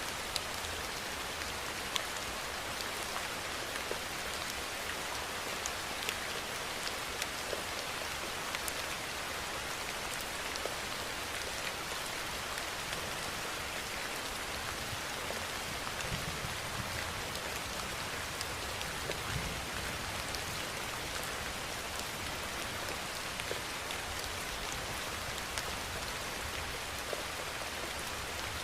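Steady rainfall: an even hiss of rain with many sharp drop ticks scattered through it.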